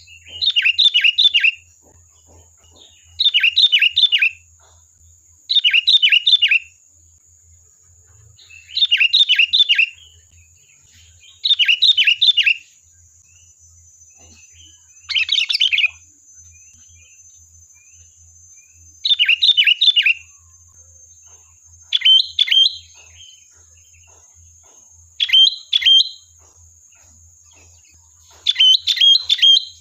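Sooty-headed bulbul (kutilang) singing: about ten short phrases of a few quick, bubbly notes, each about a second long, repeated every two to three seconds.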